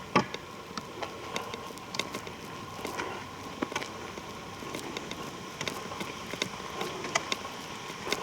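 Footsteps on a forest trail: irregular crackling steps, with one sharp snap just after the start, over a faint steady whine.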